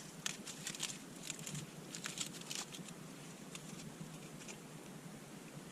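Small campfire, rekindled from embers, crackling with irregular sharp pops and clicks. The pops come thickly for the first few seconds, then more sparsely.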